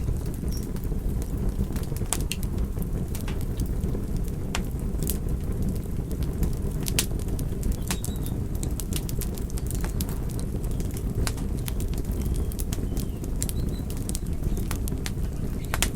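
Wood fire burning: a steady low rumble of flames with irregular sharp crackles and pops scattered throughout.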